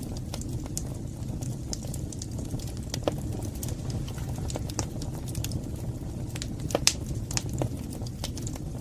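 Wood fire burning in a fireplace: a steady low rush with irregular crackles and pops throughout, the sharpest pop about seven seconds in.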